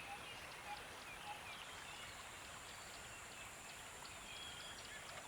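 Faint nature-sound background: a steady hiss of running water with small bird chirps scattered through it.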